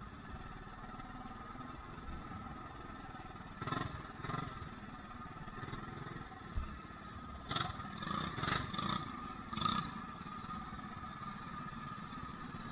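Small single-cylinder mini bike engine running steadily, with a handful of sharp clattering knocks between about four and ten seconds in.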